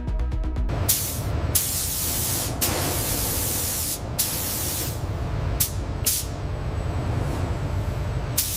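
A series of hissing spray bursts of varying length, some short and some over a second long, over a steady low rumble. They start just under a second in, as music cuts off.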